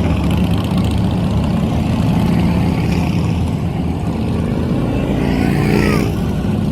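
Motorcycle engines running steadily in a low rumble, with a brief falling squeal near the end.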